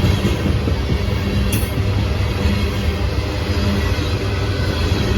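Freight cars of a gypsum train rolling steadily past at close range: a continuous rumble of steel wheels on rail, with a faint high ring over it.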